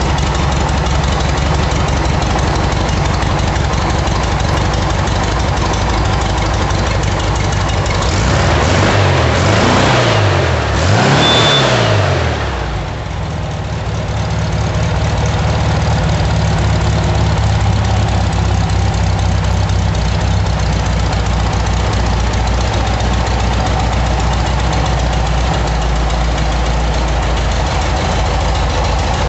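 Rebuilt 1300 cc Okrasa-tuned air-cooled VW flat-four running at a steady idle. It is revved twice around ten seconds in, the pitch rising and falling each time, dips briefly, then settles back to idle.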